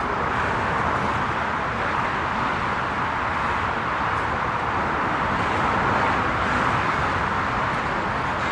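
Jet engines of a large airliner, a steady rushing noise with no break or change in pitch.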